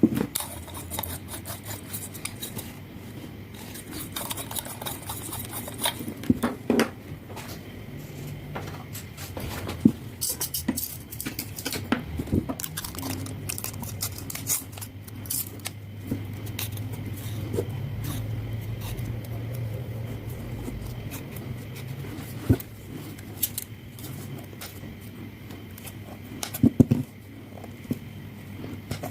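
Scattered clicks, taps and scrapes of small parts handled and worked by hand, with a faint low hum swelling in the middle.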